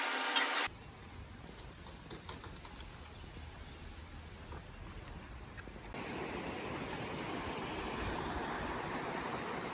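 Steady rushing of a mountain stream, quiet at first and louder after an edit about six seconds in. A brief run of clicks at the very start.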